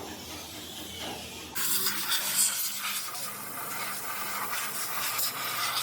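Steady hissing, rubbing noise from refinishing work on a wheel rim, such as sanding or spraying, that starts suddenly about a second and a half in.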